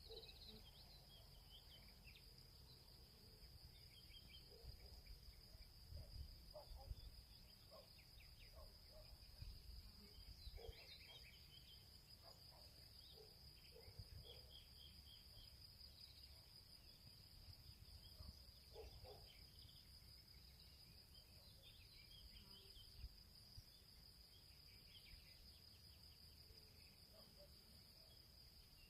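Faint field ambience: a steady high-pitched insect chorus with scattered short bird chirps over it.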